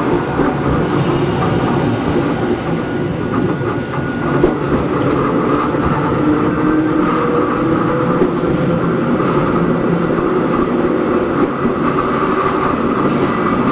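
Hakone Tozan Railway Moha 1 electric car running, heard from on board: the steady whine of its nose-suspended SE121-A traction motors and gears over rumbling running noise, with wheels clacking over rail joints.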